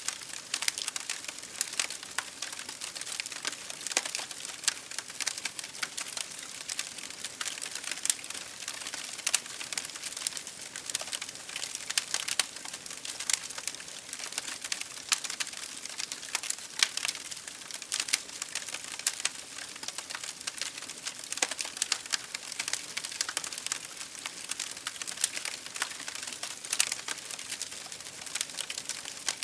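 Wood fire in an open fireplace crackling steadily, with frequent irregular sharp pops and snaps over a soft hiss.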